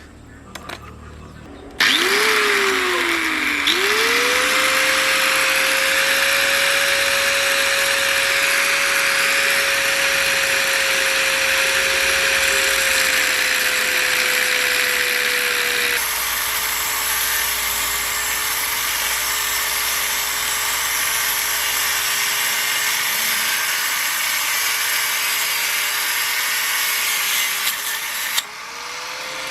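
An electric power tool starts up, spins up to speed and then runs steadily with a high whine over a harsh grinding noise. About halfway through there is an abrupt change and the whine settles slightly lower. It stops near the end.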